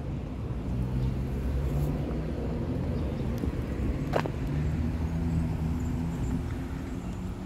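A motor vehicle's engine running nearby, a steady low hum, with a single sharp click about four seconds in.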